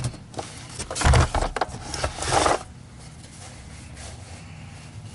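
Knocks, clicks and scraping from handling metal parts during a stand mixer teardown: a cluster of knocks about a second in, a scrape around two seconds, then quieter.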